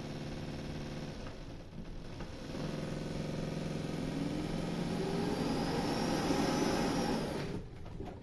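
Narwal Freo Z10 robot vacuum running its post-dock self-clean and self-empty cycle. It starts with a steady motor hum as the roller spins to clean itself. About two and a half seconds in a louder suction motor starts, and its whine rises in pitch as leftover debris in the onboard tank is pulled into the base station's dust bag, then cuts off suddenly near the end.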